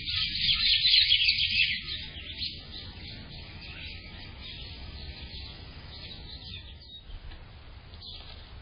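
Small birds chirping in a rapid, dense twitter, loud for about the first two seconds and then thinner and fainter. A low steady rumble runs underneath.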